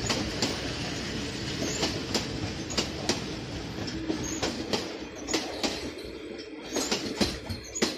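Passenger train coaches rolling on the rails, with a steady rumble and sharp, irregular clacks as the wheels cross rail joints. The clacks come faster near the end.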